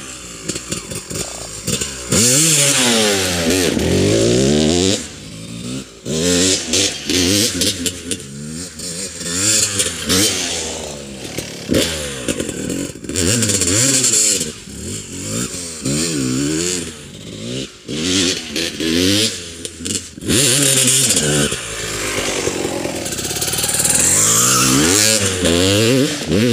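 Honda CR250R's single-cylinder two-stroke engine revving hard under acceleration, loud throughout, its pitch climbing and dropping again and again, with the throttle repeatedly chopped and reopened.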